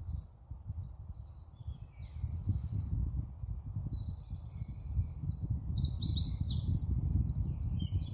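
Small songbirds singing high-pitched songs of quick repeated notes, starting about two seconds in and growing stronger, over a steady low rumble.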